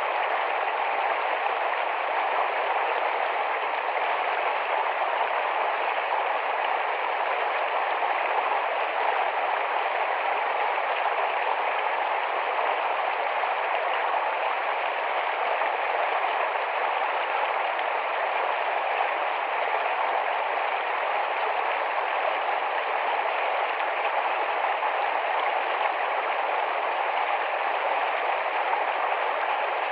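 Small, fast-flowing forest stream rushing and babbling over stones, a steady unbroken wash of water noise.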